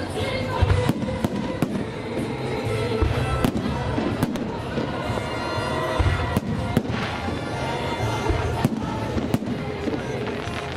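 Festive fireworks salute: aerial shells bursting with sharp bangs at irregular intervals, about one a second, over music playing.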